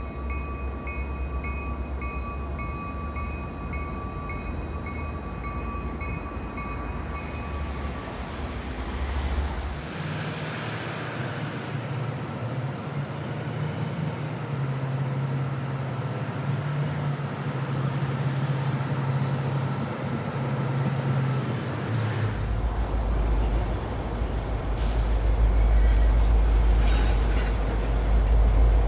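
Diesel switcher locomotive running on the track, a steady rumble that grows louder in the last few seconds.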